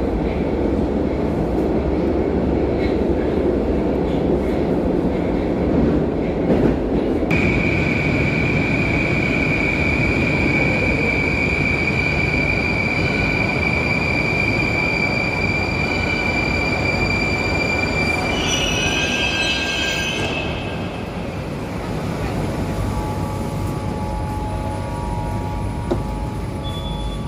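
Moscow metro train heard from inside the carriage: a steady running rumble, joined about 7 s in by a long high steady whine that lasts about twelve seconds as the train slows. A burst of higher squealing tones follows near 19–20 s, then the noise drops as the train comes to a stop.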